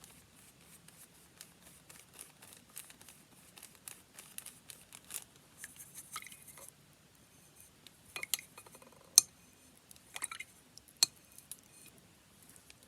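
Faint fine crinkling ticks, then about five sharp clinks of small hard objects knocking together, with a brief ring after each, in the second half.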